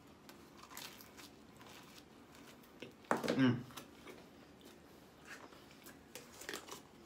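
Quiet chewing of a pizza slice with faint crinkles of the paper and cardboard box. A brief vocal sound from a person's voice comes about three seconds in.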